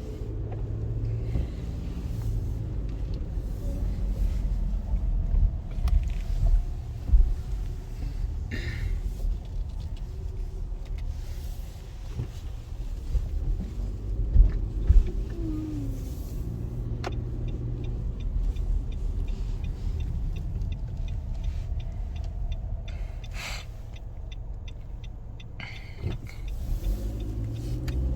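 Road and engine noise inside the cabin of a 2017 Nissan Rogue SV AWD on the move: a steady low rumble, with a few sharp knocks, the loudest about a quarter and halfway through.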